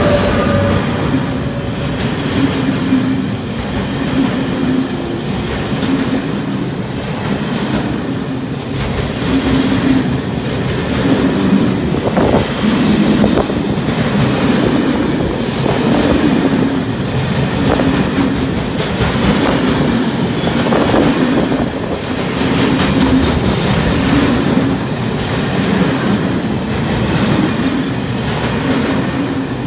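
Freight train of loaded log wagons rolling past close by, a steady rumble with the wheels clattering over rail joints in a regular rhythm of about one beat a second.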